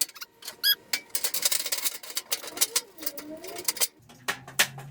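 Steel shelf panel and frame clattering as the panel is set into the metal shelving frame: a quick run of sharp metallic clicks and knocks.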